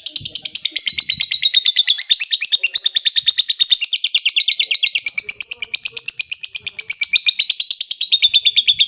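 Lovebird singing a long, unbroken 'ngekek' chatter: rapid shrill notes, about a dozen a second, running on without a pause. The pitch sags slowly and lifts again.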